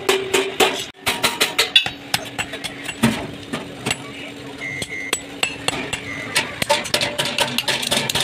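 Metal being hammered in a rapid, uneven series of sharp strikes, several a second, with a faint ringing tone underneath.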